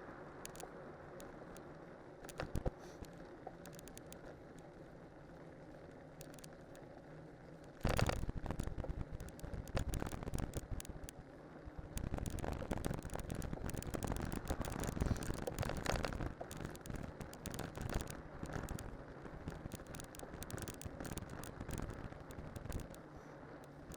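Bicycle with studded cyclocross tyres rolling on a descent: a steady hum of tyre noise, turning about eight seconds in to a much louder, rough, crackling rumble that carries on.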